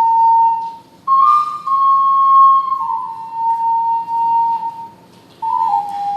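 Ocarina playing a slow solo melody in long held notes that step gradually downward, with two short breath pauses between phrases, about a second in and around five seconds.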